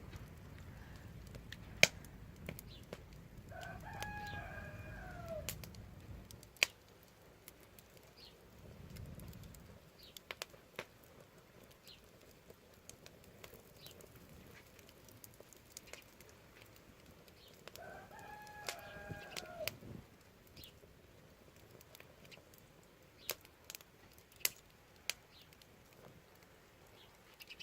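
Wood fire crackling with scattered sharp pops. A rooster crows twice in the background, about four seconds in and again around twenty seconds.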